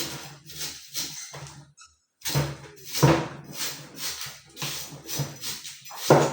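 A voice singing a song in short phrases, with a brief pause about two seconds in.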